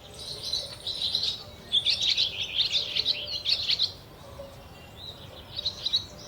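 Many small birds chirping and twittering together in a busy, overlapping chorus, thickest from about one to four seconds in, then thinner.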